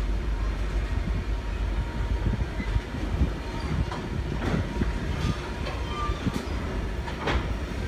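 Passenger train rolling along the rails with a steady low rumble. Several sharp clacks come from about four seconds in.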